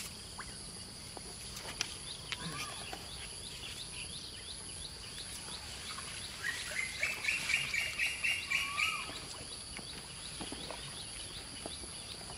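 Outdoor ambience of birds chirping, with a louder quick run of repeated calls from about six to nine seconds in, over a steady high-pitched hum.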